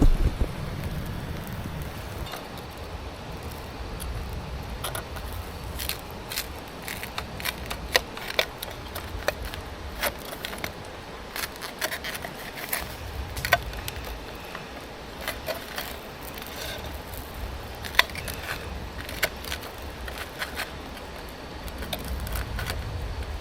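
Wood fire crackling, with scattered sharp pops and clicks at irregular intervals over a steady low rumble.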